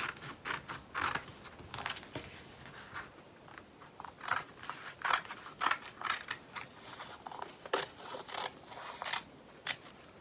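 Scissors making a run of short, irregular snips, cutting a label off a kit's packaging.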